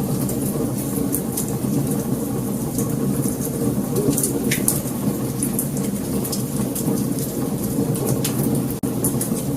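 Wood fire burning: a steady low rush of flames with frequent sharp crackles and pops scattered throughout. The sound cuts out for an instant near the end.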